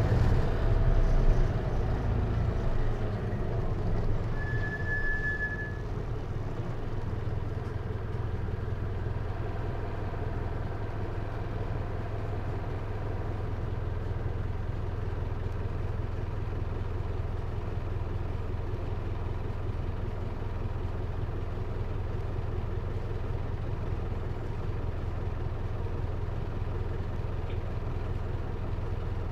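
The Hino Liesse RX4JFEA microbus's J05C diesel engine, heard from inside the cabin. It runs louder for the first few seconds, then settles to a steady low idle from about six seconds in. A short high beep sounds about four seconds in.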